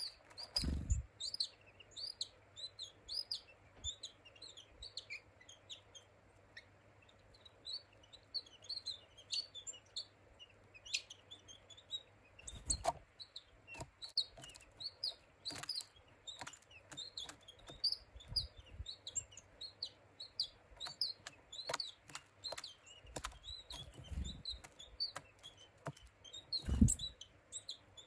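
A dense run of short, high bird-like chirps, several a second, with a few dull low thumps scattered through.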